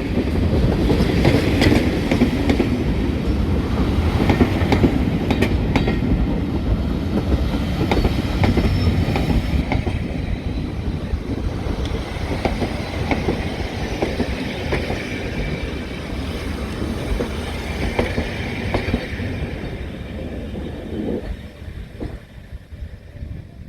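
Heritage diesel train running along the track, with a steady rumble and wheels clicking over rail joints; the sound fades away in the last few seconds.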